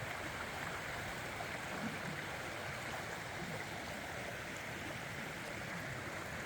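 A stream running steadily over rocks, a continuous even rush of water.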